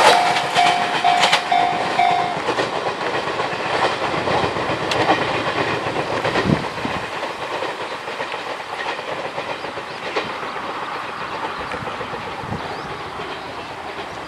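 A JR 183 series electric train running on, its wheels clacking over the rail joints and fading steadily as it draws away. A level-crossing alarm rings in even repeated pulses at first and stops about two seconds in, once the crossing is clear.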